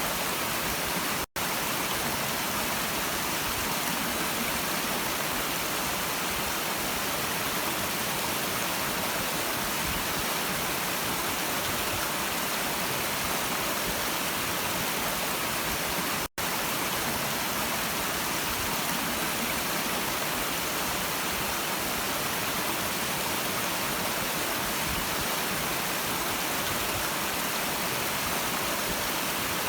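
Stream water running in a steady, even rush, with two very short dropouts to silence, one just after the start and one about halfway.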